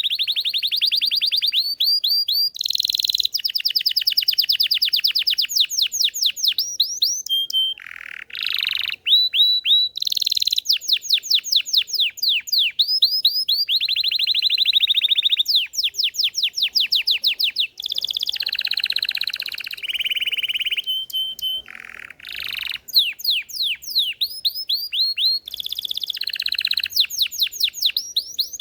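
Belgian canary singing a long, continuous song of rapid trills: fast runs of repeated sweeping notes and buzzy rolls, each held a second or two before switching to the next phrase.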